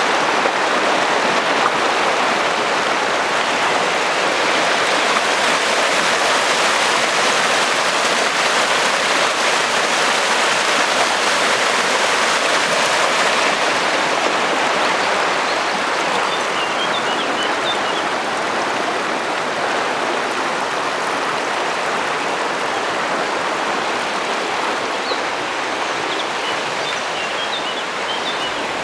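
Mostnica river rushing through its gorge: a loud, steady rush of water that eases slightly over the second half. A few faint, short high chirps sound about halfway through and again near the end.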